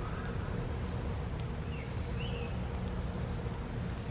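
Insects holding a steady high-pitched trill, with a few faint pops and crackles from the campfire.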